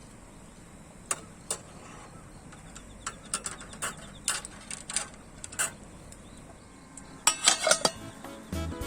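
Metal items clinking and knocking lightly every so often, with a quick run of louder clinks near the end; background music comes in just before the end.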